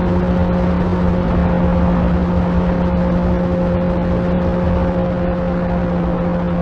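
Electric motor and propeller of an FMS 1500mm Cessna 182 RC model plane in flight, running at a steady pitch, with air rushing past the onboard microphone.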